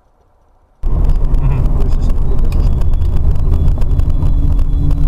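Vehicle on the road: loud engine and road noise that starts suddenly about a second in, with a steady hum joining about four seconds in.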